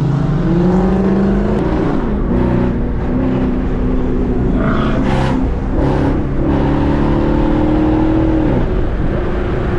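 Car engine revving, its pitch climbing over the first second or so, holding high, then dropping near the end.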